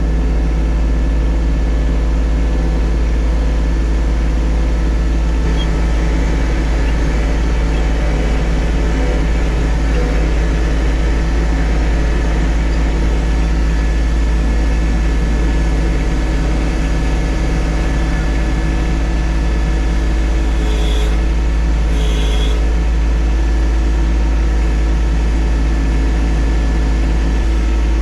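John Deere 1025R subcompact tractor's three-cylinder diesel engine running steadily. Two brief higher-pitched tones come about three-quarters of the way through.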